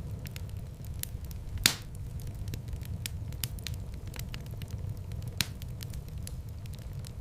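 Wood fire burning in a fireplace: a steady low rumble of flames with frequent sharp crackles and snaps, and one loud pop a couple of seconds in, with another near the end.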